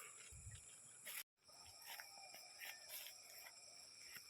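Near silence with faint, steady high-pitched insect chirring from the jungle, cut by a brief total dropout about a second in.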